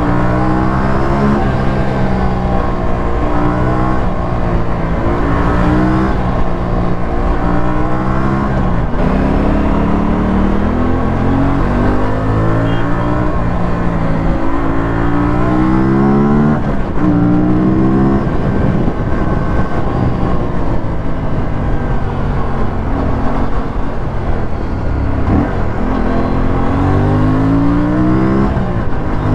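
Aprilia RS457's parallel-twin engine and exhaust under hard riding. The note repeatedly climbs steeply with the revs, then drops back and climbs again, about nine times in the span.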